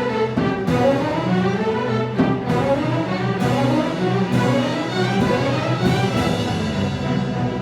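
An orchestra playing, led by bowed strings, with melodic runs sweeping up and down over sustained lower notes.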